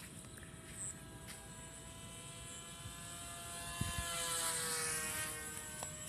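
Radio-controlled model airplane's motor and propeller whining as it flies past close by: it grows louder and its pitch drops as it passes, about four to five seconds in.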